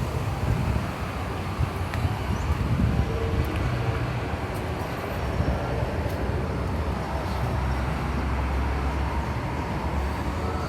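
Steady low rumble of a vehicle engine running, with no clear change in speed.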